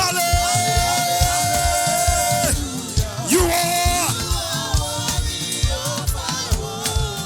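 Live gospel praise music: a choir with drums and a band over a steady, quick beat. A long high note is held for about two and a half seconds, then the singing goes on in shorter phrases.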